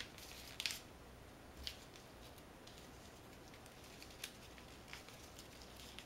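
Origami paper being handled and creased by hand: a few faint, brief crinkles spread out over several seconds.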